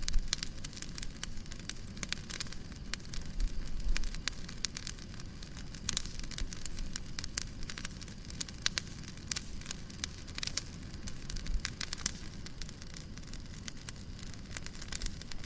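Fireplace wood fire crackling steadily, with frequent irregular sharp pops and snaps over a low rumble.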